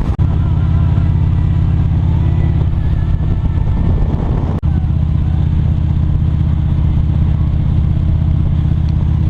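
Motorcycle engine running steadily at cruising speed, heard from on the bike, with a brief dropout about halfway through.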